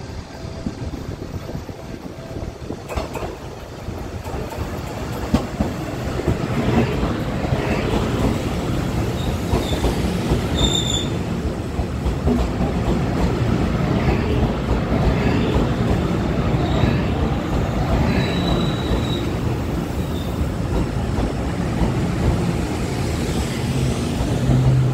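A Taiwan Railway train running on the rails: the rumble of wheels and cars grows louder over the first several seconds, then holds, with brief high-pitched wheel squeals twice in the middle.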